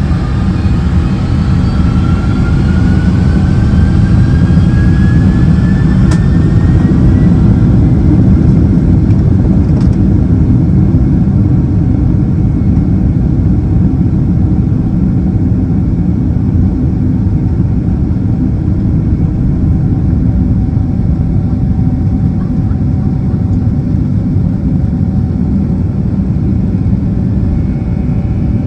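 Boeing 767-300ER's jet engines spooling up for takeoff, heard from inside the cabin: a whine rising in pitch over the first several seconds above a loud, steady low rumble that carries on through the takeoff roll.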